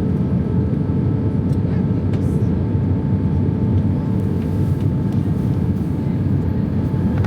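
Cabin noise inside an Airbus A320 airliner: a steady, even rush of engine and airflow noise with a few faint steady tones, heard during the approach to landing.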